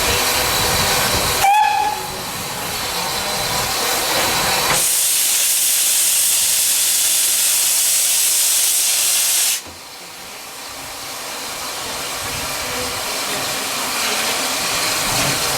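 Steam locomotive: a short whistle peep about a second and a half in, then a loud, high steam hiss for about five seconds that cuts off suddenly, followed by a steady running noise that slowly grows louder.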